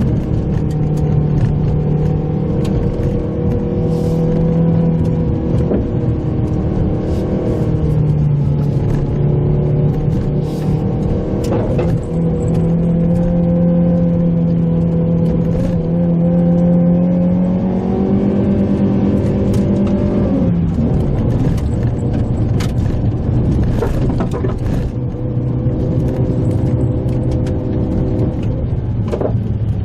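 Mitsubishi Pajero Mini's small engine pulling along a forest road, its pitch rising and falling with the throttle and dropping sharply about twenty seconds in, with scattered sharp clicks and knocks throughout.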